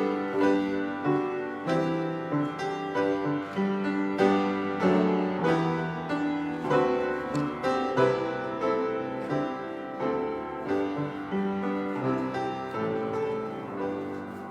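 Solo piano playing slowly, with notes and chords struck and left to ring. It grows gradually softer in the last few seconds.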